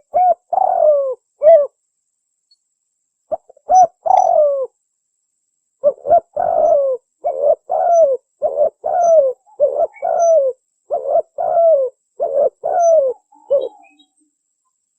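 Spotted dove cooing: groups of short coos, each dropping in pitch at its end. Two short groups with dead-silent pauses come first, then from about six seconds in a long unbroken run of about a dozen coos that stops about a second before the end.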